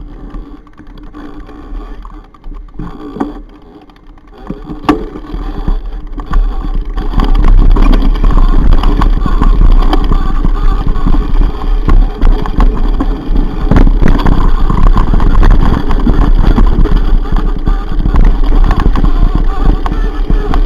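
Mountain bike on a rough trail: wind buffeting the microphone and the bike rattling and clattering over the ground. The noise builds over the first few seconds as the bike picks up speed, then stays loud and steady with frequent sharp knocks.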